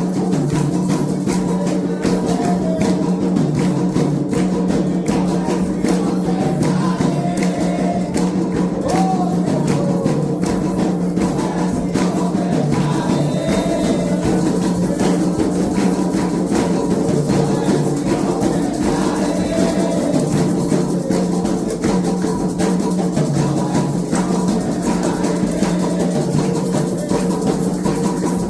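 Candomblé atabaque drums and hand percussion playing a steady, driving rhythm for a ritual dance, with voices singing faintly underneath.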